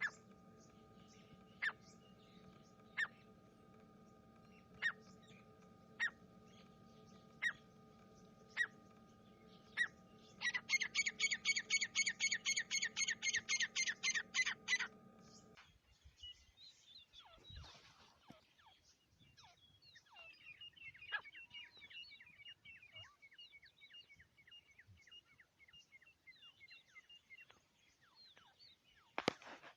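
Francolin (teetar) calling: sharp single calls about every second and a half over a steady hum, then a rapid run of calls for about four seconds. The hum stops halfway through, and a long, fainter series of quick falling calls follows.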